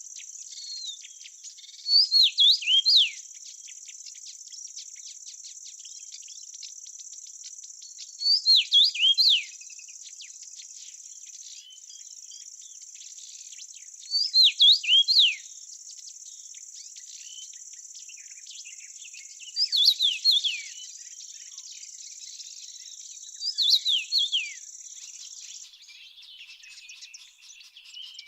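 A steady high chirring of crickets, with a bird singing a short phrase of several quick falling notes five times, about every six seconds. The cricket chirring stops shortly before the end.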